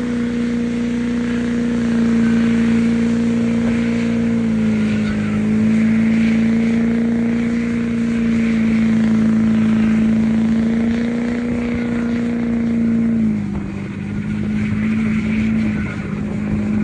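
Engine held at steady high revs, its pitch shifting in small steps: slightly lower about four seconds in, back up around eight seconds, and dropping at about thirteen seconds.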